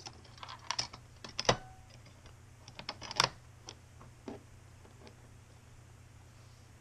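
Small parts of an opened airsoft gearbox being handled: scattered light clicks and knocks of hard parts against each other and the work surface, with two sharper knocks about a second and a half and three seconds in. The handling stops after about five seconds, leaving a faint low hum.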